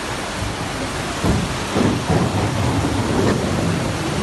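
Steady heavy hiss of downpour and floodwater, with an irregular low rumble through the middle.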